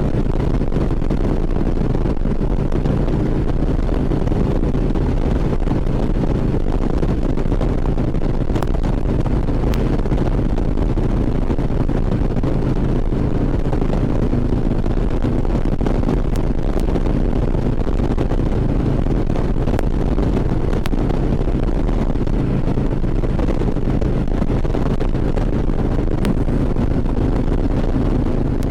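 Harley-Davidson V-twin motorcycle engine running at a steady cruising speed, with wind noise on the helmet microphone.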